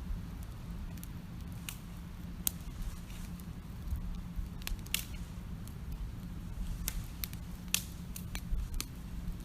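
Wood campfire crackling: irregular sharp pops and snaps, a few louder ones among many small ones, over a low steady rumble.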